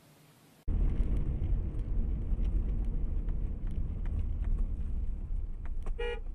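Low rumble of a car driving, heard from inside, starting abruptly about half a second in, with scattered light clicks. A short beep sounds near the end.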